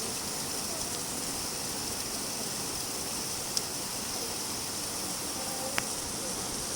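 Steady rain falling, with two single louder drops striking, one about halfway through and one near the end.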